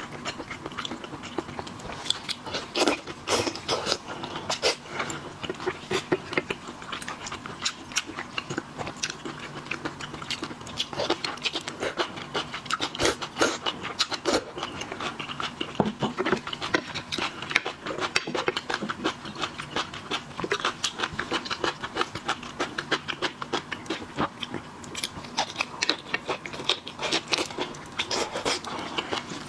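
Close-up eating sounds of shellfish being bitten and chewed: many short, irregular cracks and clicks following one another closely.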